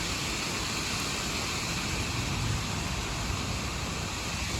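Strong wind gusts in a severe thunderstorm: a steady rushing noise with uneven low buffeting on the microphone.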